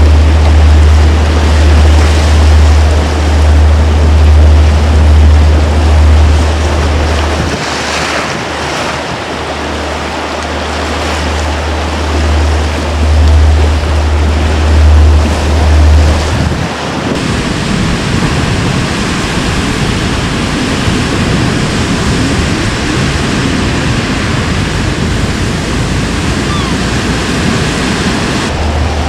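Stormy Baltic Sea surf: waves breaking and washing in steady, loud noise, with strong wind. Heavy wind rumble on the microphone for the first half, stopping about seventeen seconds in.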